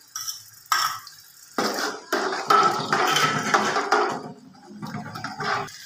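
Wet ginger-garlic paste sizzling as it hits hot oil in a steel pot, with a steel spoon clinking and scraping against the pot. A couple of light clicks come first, then the sizzling and stirring are loudest for a few seconds before easing off near the end.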